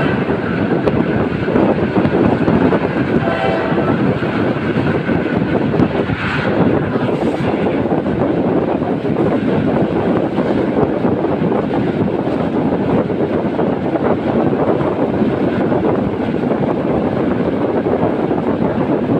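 Passenger train running at speed, heard from an open carriage window: a steady rush of wheel-on-rail and wind noise. A short, faint tone sounds about three and a half seconds in.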